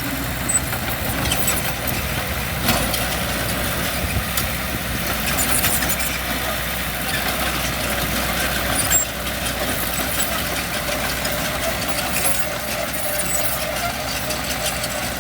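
Diesel engine of heavy earthmoving equipment running steadily, with scattered metallic knocks and clanks.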